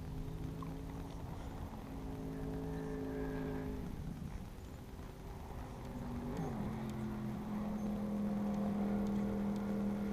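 Electric trolling motor on a bass boat running with a steady hum. Its pitch shifts as the speed is changed: a change about four seconds in, a brief falling glide about six seconds in, then a louder steady hum to the end.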